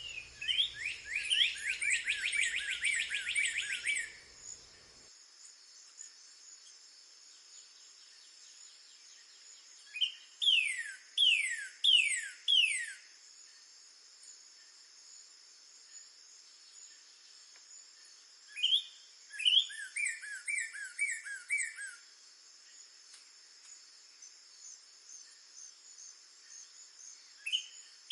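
Northern cardinal singing loud, clear whistled phrases of notes that slur downward. The first phrase is a fast run of notes; about ten seconds in comes a slower phrase of four long down-slurred notes; near the twenty-second mark a couple of rising notes lead into a quick series of short notes; the next phrase starts near the end.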